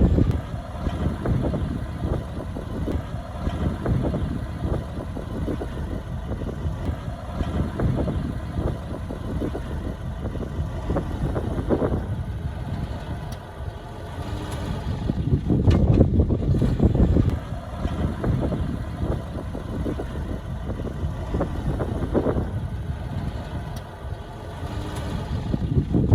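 Diesel engine of heavy earthmoving machinery running steadily, growing louder about fifteen seconds in and again near the end as it works harder or comes closer.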